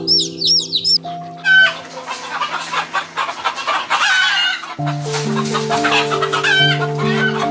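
A flock of birds calling noisily over gentle background music, with a few quick, high repeated chirps in the first second.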